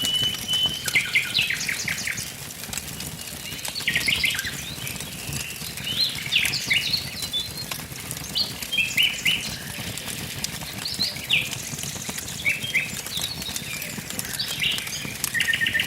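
Songbirds singing short, quick phrases every couple of seconds over a wood fire crackling with fine pops and a steady low rush.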